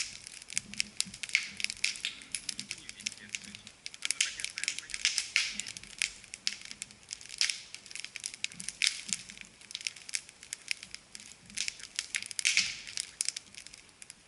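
Campfire crackling and popping: a dense run of irregular sharp snaps as the wood burns.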